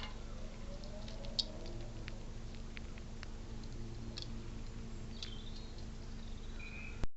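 Squirrel feeding at a bird feeder: scattered small clicks and taps, with a couple of brief high bird chirps in the second half over a steady low hum.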